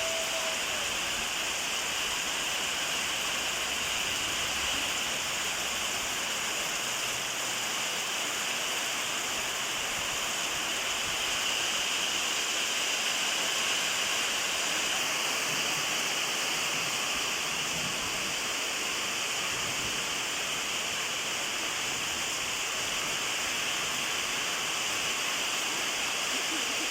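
Heavy rain falling steadily, a constant hiss of water with no break.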